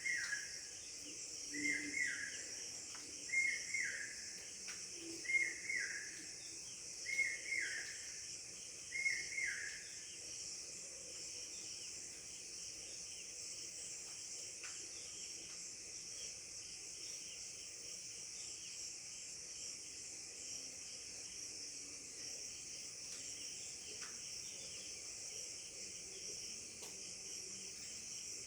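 Steady chorus of crickets, with a bird repeating a short falling call about every two seconds through the first ten seconds.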